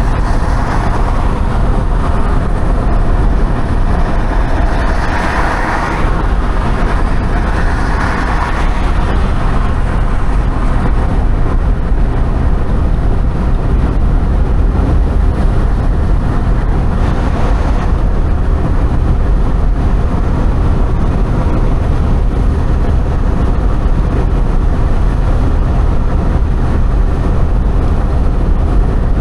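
Steady, loud low rumble of a vehicle on the move, with a little more hiss in the first several seconds.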